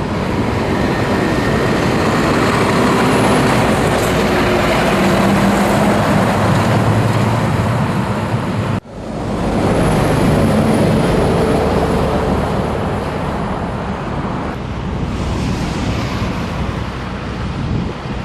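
Scania truck on the move: a steady engine drone mixed with road noise, the engine tones shifting slightly in pitch, and a momentary drop-out about nine seconds in.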